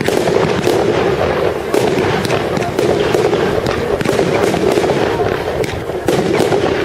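Fireworks going off in a rapid, continuous barrage of cracks and bangs, with no pause.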